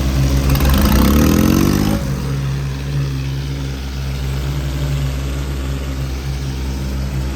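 Tractor diesel engine revving up, its pitch rising for about a second and a half, then falling back abruptly about two seconds in and running steadily at a lower note.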